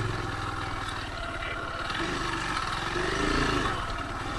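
Kymco KTR 150's single-cylinder four-stroke engine running steadily at low speed, with a brief rise and fall in pitch about three seconds in.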